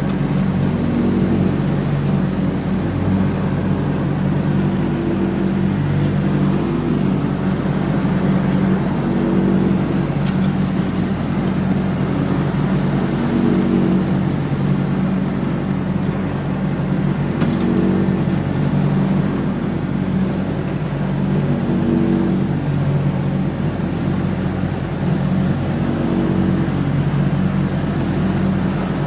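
John Deere X304 lawn tractor engine running steadily at mowing speed, its note swelling and easing slightly every couple of seconds.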